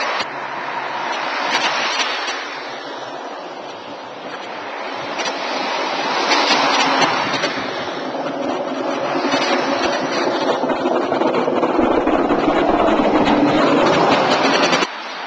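Road traffic passing: tyre and engine noise swelling and fading as vehicles go by, with a heavier engine hum building near the end before it cuts off suddenly.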